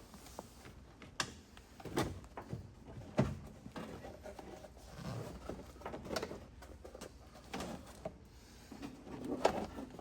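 Scattered clicks, knocks and rustling of loose items being grabbed and pulled out by hand, with the sharpest knock about three seconds in.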